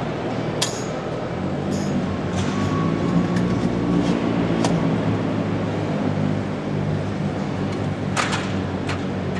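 Steady hubbub of many distant voices, with a few sharp clinks and knocks: at about half a second in, near two seconds, and again near the end.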